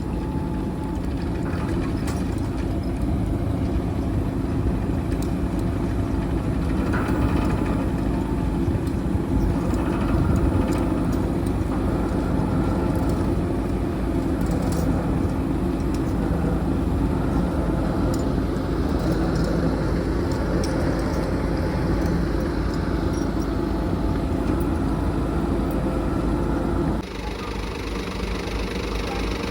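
Heavy truck engine running steadily, with a rumble that swells for a few seconds past the middle. The sound changes abruptly near the end.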